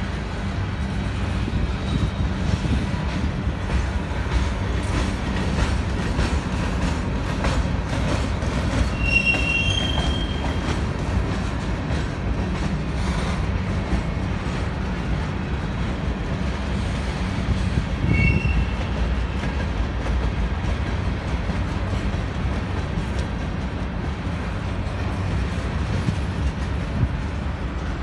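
Loaded covered hopper cars of a freight train rolling past on steel rails, with a steady heavy rumble of wheels and running gear. Brief high squeals come from the wheels about nine seconds in and again around eighteen seconds.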